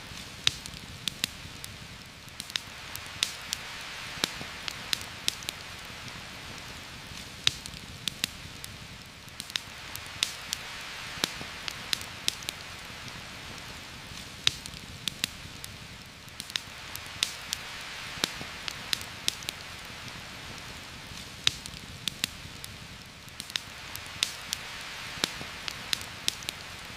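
Heavy rain falling in a forest, a steady hiss that swells and eases every few seconds, with frequent sharp, irregular pops and crackles from a campfire.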